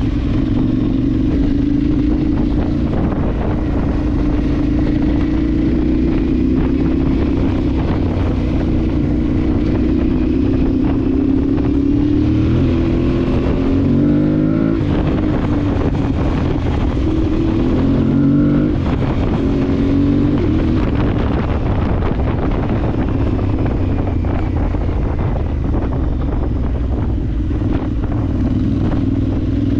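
Adventure motorcycle engine running under way off-road, its note rising and falling with the throttle, with quick changes in pitch about halfway through.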